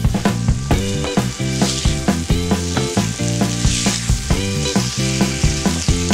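Sliced banana and onion sizzling in hot margarine in a frying pan as they are stirred with a silicone spatula, under background music with a steady beat.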